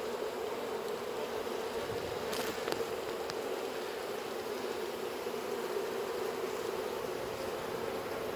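Honey bee swarm buzzing at a hive box, a steady hum of many bees, with a faint click about two and a half seconds in.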